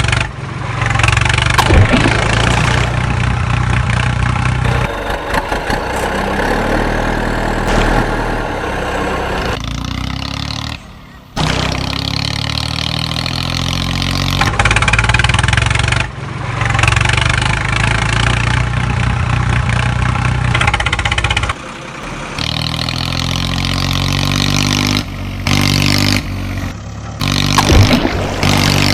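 Heavy vehicle engines running, idling and revving up with rising pitch several times, in segments that change abruptly from one to the next.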